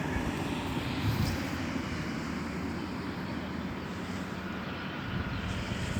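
A steady low rumble, with a faint steady hum coming in about halfway through.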